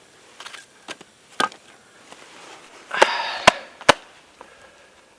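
Firewood being chopped: about six sharp knocks into wood, the loudest three in the second half, one of them trailing a brief splintering crackle.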